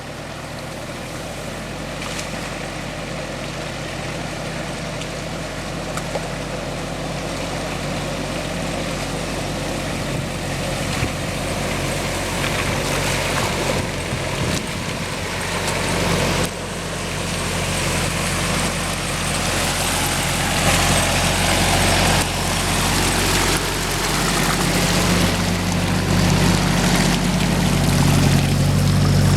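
Off-road SUV engine running steadily under load, growing gradually louder, with a noisy wash over it.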